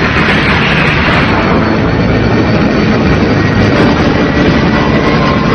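Cartoon spaceship sound effect: a loud, steady jet-like rushing roar of ships on the move in a space battle.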